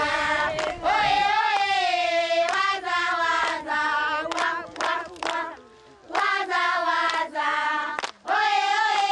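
Group of voices singing together, holding long notes with short breaks between phrases.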